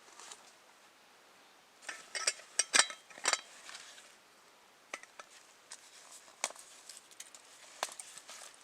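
Light clinking and knocking of small hard objects being handled, like utensils against cookware. There is a quick cluster of sharp clinks about two seconds in, then scattered lighter ticks.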